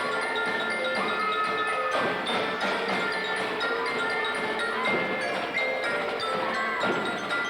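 A band playing a tune in which glockenspiel-like mallet percussion carries the melody, with held ringing notes over percussion.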